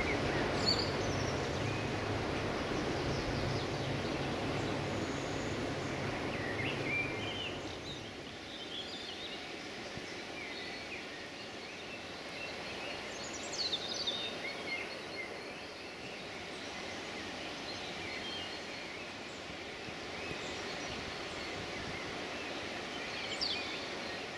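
Low rumble of a passing train dying away over the first eight seconds or so, leaving a steady outdoor hiss with small birds chirping now and then.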